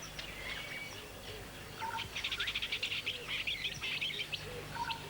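Small birds chirping and whistling in the savanna, with a fast run of chirps, about ten a second, starting about two seconds in and lasting about a second and a half.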